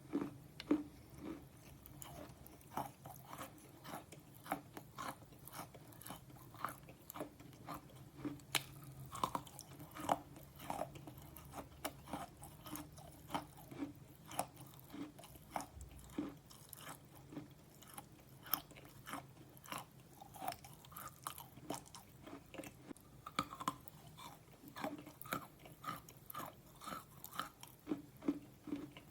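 Slate pencil being chewed and crunched close to the microphone: a continuous run of short sharp crunches, two or three a second.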